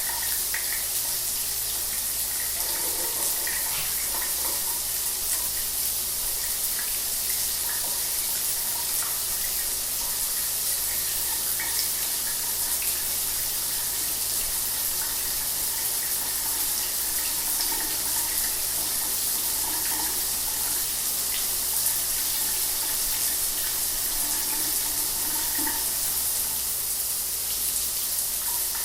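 Shower water running steadily: an even hiss of falling spray.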